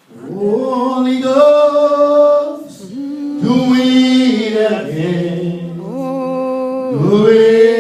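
Worship song sung by voices without audible accompaniment, in about three long drawn-out phrases of held notes.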